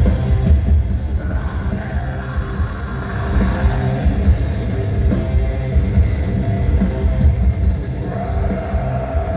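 A metal band playing live: distorted guitars, bass and a drum kit loud and dense in the low end, with some vocals.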